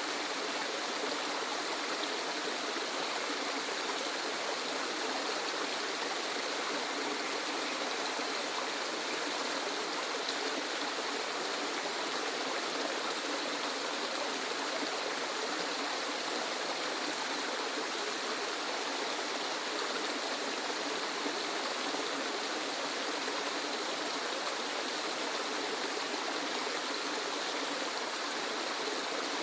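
Waterfall: a steady, even rush of falling water, with little deep rumble.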